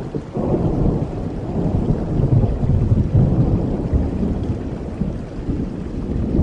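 Thunder rumbling over steady rain: the roll builds about half a second in, is loudest in the middle and eases off toward the end.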